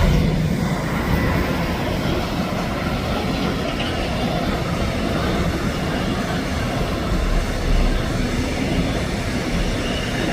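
A train passing on the line, a steady rumble and rolling noise of wheels on rail.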